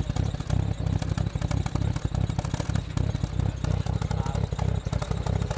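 Turbocharged Nissan Silvia S14's engine idling at about 1,000 rpm, with a steady, deep exhaust pulse.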